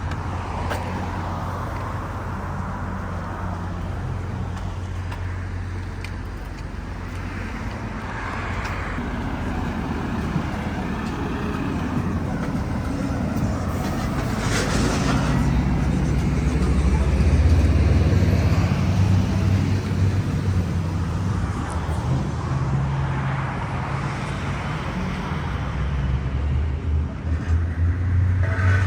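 City street traffic: cars passing with a steady low rumble, swelling as a louder vehicle goes by about two thirds of the way through and again near the end.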